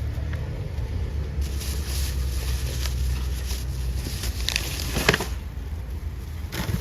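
A car running with a steady low rumble, with a couple of sharp knocks about five seconds in.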